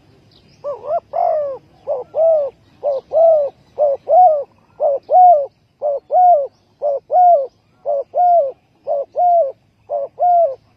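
Spotted dove cooing: a short note followed by a longer arched coo, repeated evenly about once a second, ten times over.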